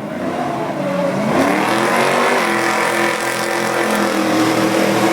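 Truck engine accelerating: its note rises about a second and a half in, then holds a steady, loud pitch.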